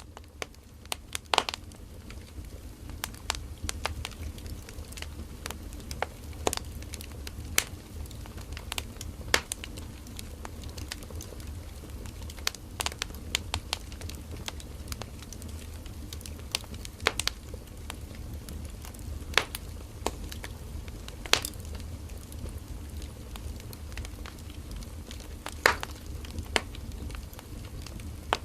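Firewood burning in a campfire: irregular sharp crackles and pops over a steady low rumble and hiss of the flames.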